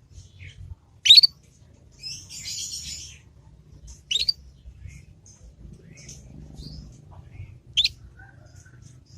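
Young domestic canary calling: three loud, short upswept chirps about three seconds apart, with a soft scratchy twitter between the first two. This is the chattering 'ngriwik' of a juvenile canary still learning its song.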